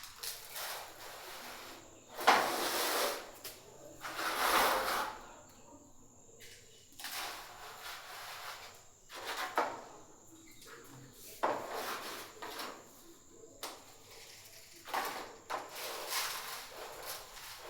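Dry poultry feed being scooped with a bowl and poured out into portions, in a series of separate rushing, scraping bursts with short pauses between.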